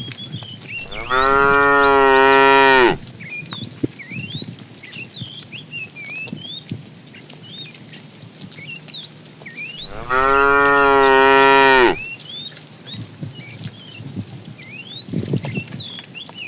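A cow mooing twice, each a long, steady call of about two seconds, the second starting about ten seconds in. Birds chirp in the background throughout.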